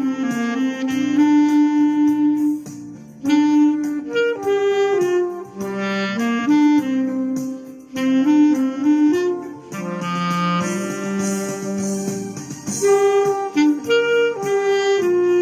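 Clarinet playing a song melody over a backing track with a steady beat.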